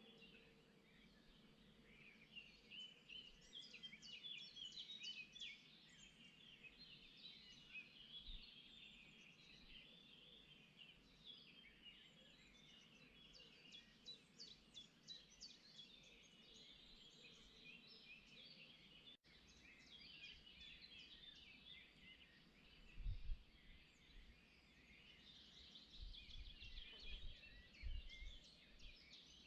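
Faint chorus of many small songbirds chirping and twittering together, with a few low thuds in the last third.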